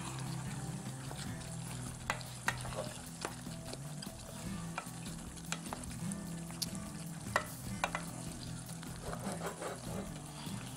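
Potatoes and aubergine sizzling as they fry in a non-stick pot over a gas flame, stirred with a metal spoon that clicks and scrapes against the pot every second or so.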